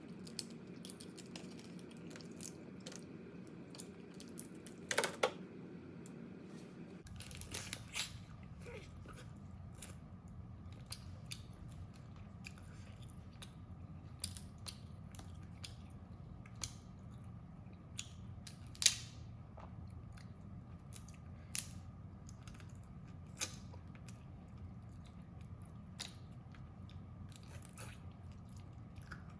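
Crab being eaten close to the microphone: scattered sharp cracks and crunches of shell being bitten, with chewing in between. The loudest cracks come about five seconds in and again about two-thirds of the way through, over a low steady hum.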